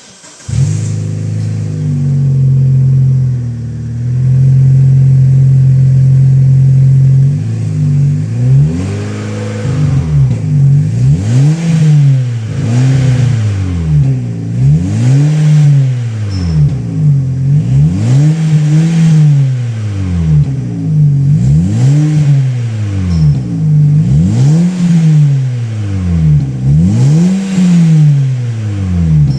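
Opel Astra G engine breathing through a Magnaflow 5X8D 14815 stainless muffler. It starts about half a second in and idles steadily for several seconds, then is blipped up and back down again and again, about once every second and a half, until the end.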